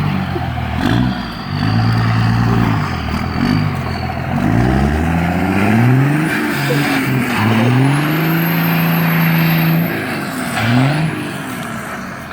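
5.9 Cummins diesel engine with a 5-inch straight-pipe exhaust, accelerating hard under load. Its note climbs and falls back several times as the truck pulls away and shifts through the gears.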